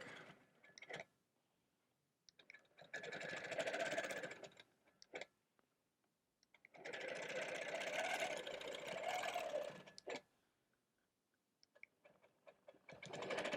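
Longarm quilting machine stitching in the ditch along a seam in three short runs of a few seconds each, stopping and starting again between them.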